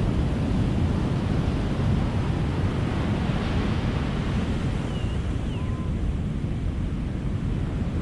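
Ocean surf breaking and washing ashore: a steady, full roar of waves, easing slightly near the end. A couple of faint short high chirps come through about five to six seconds in.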